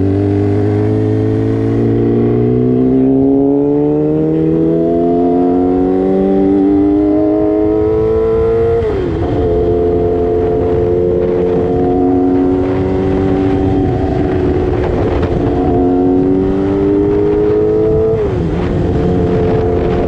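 Sport motorcycle engine pulling up through the revs under steady acceleration, shifting up with a sharp drop in pitch a little before halfway. It holds a steady speed, then climbs again and shifts up once more near the end.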